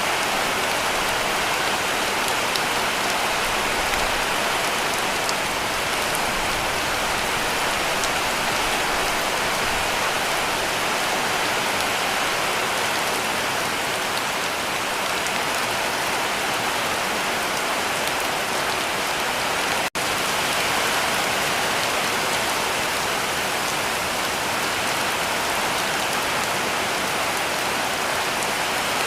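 Heavy rain falling steadily on a cabin roof, a dense even patter, with a split-second break in the sound about two-thirds of the way through.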